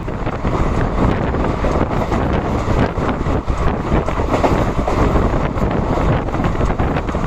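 Express train running at speed heard from aboard, with a steady rush of wind buffeting the microphone over the rumble of the wheels and a rapid clatter of small knocks.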